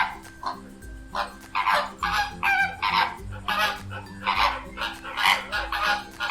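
Goose honking, a rapid run of short honks one after another, over light background music.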